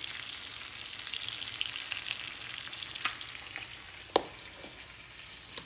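Shrimp frying in butter and garlic in a pan, a steady sizzle with fine crackle. A single sharp knock about four seconds in.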